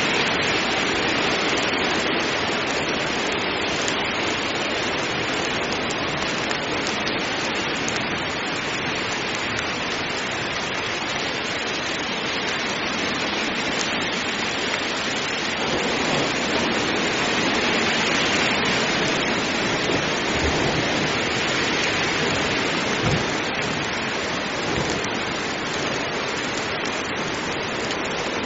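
Heavy rain falling steadily, a dense even hiss, with a few faint low rumbles of distant thunder in the second half.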